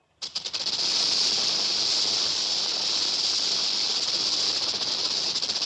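A snake hissing: one long, steady hiss that starts about a quarter second in and turns fluttery near the end.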